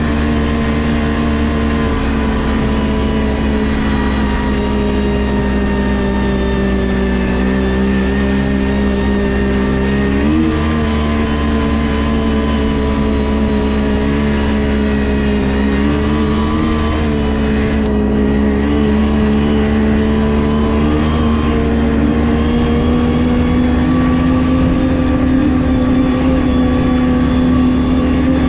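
Ski-Doo GSX 600 HO snowmobile's two-stroke engine running at a steady trail speed, its pitch wavering a little. There is a quick rev about ten seconds in and a slow climb in pitch near the end.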